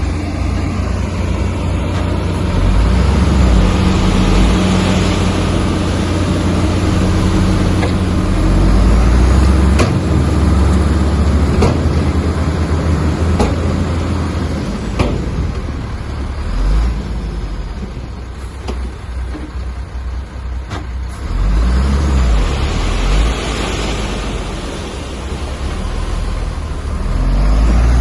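Heavy diesel earthmoving machinery working, its deep engine rumble rising and falling with load, and a few sharp knocks in the middle.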